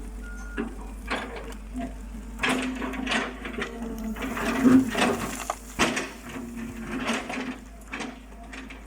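Excavator at work: a steady engine hum under irregular clanks and knocks, busiest a few seconds in.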